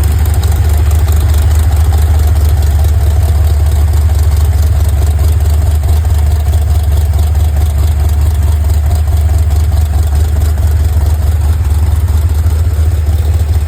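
Chrysler 440 big-block V8 with a Comp hydraulic roller camshaft idling steadily on an engine run stand, exhaust through the run-stand headers.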